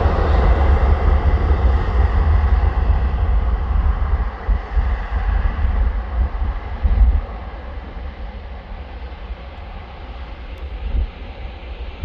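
Jet airliner taking off from the runway, its engine roar fading as it climbs away. Underneath is a low, gusty rumble.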